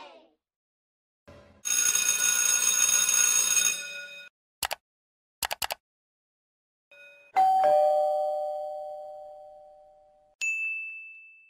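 A run of separate sound effects. First comes a bright ringing of about two seconds with many steady tones. A few sharp clicks follow, then a bell-like ding that rings and fades slowly over about three seconds, and a short high ding near the end.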